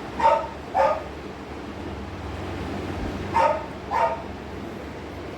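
A dog barking: four short barks in two pairs, the second pair about three seconds after the first.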